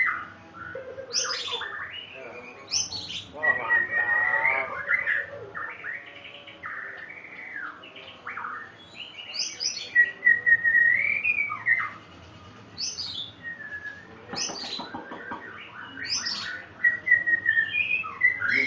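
White-rumped shama singing a long, varied song: quick whistled sweeps up and down, held notes with a warble, and rougher rattling notes now and then.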